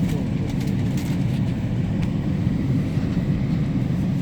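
Steady low rumble of a GO commuter train running, heard from on board, with a few faint ticks over it.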